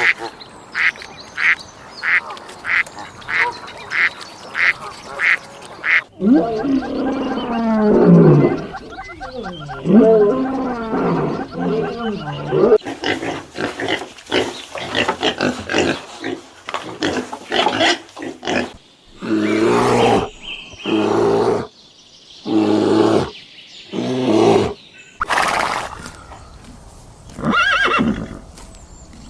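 Calls from several different animals in turn. First comes a regular series of short calls, about one or two a second. At about six seconds a cut brings drawn-out calls that waver up and down in pitch. Further cuts bring quick short calls and then a run of longer calls with pauses between them.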